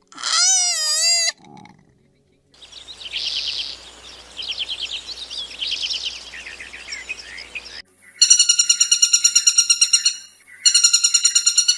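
A run of different animal calls: a short wavering high-pitched call, then several seconds of chirping trills, then a fast pulsing call in two bouts.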